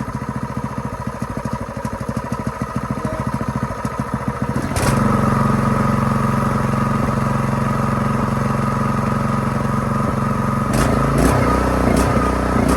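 Ironton 208cc single-cylinder four-stroke engine running with uneven firing pulses, then about five seconds in a click and it speeds up to a louder, steadier higher speed; a few clicks and a rougher patch near the end. Rough running that the owner puts down to a rich mixture and a misfire.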